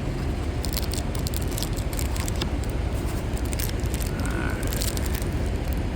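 Crackling and crinkling of card packaging as a baseball card hanger box is torn open, many small sharp crackles over a steady low rumble.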